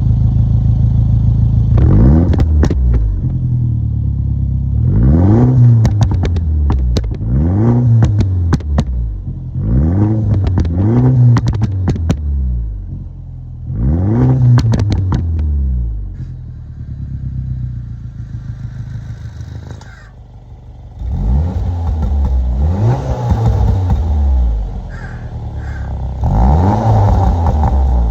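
Mini Cooper Countryman engine heard through an exhaust fitted with a QTP electric cutout, idling and then blipped in a run of short revs, each rising and falling, with sharp pops after several of them. It settles for a while, then gives longer revs near the end.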